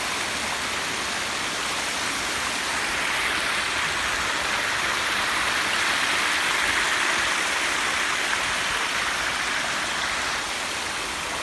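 Steady rushing of water cascading down a landscaped rock waterfall into a pondless basin, swelling a little in the middle.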